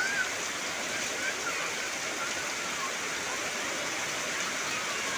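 Heavy rain falling steadily, an even dense hiss. A few faint, short calls that rise and fall in pitch sound now and then.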